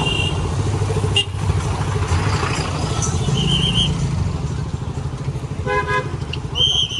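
Motorcycle engine running at low speed in slow traffic, with several short horn beeps from vehicles in the jam, the last near the end.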